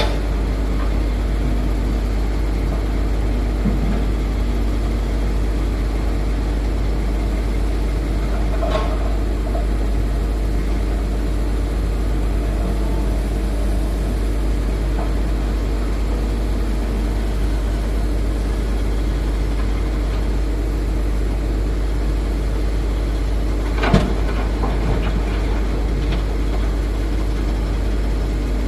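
Heavy diesel machinery of a Hitachi Zaxis 210F excavator loading a Mitsubishi Fuso dump truck, running steadily. A single sharp knock comes about four seconds before the end, with a couple of fainter knocks earlier.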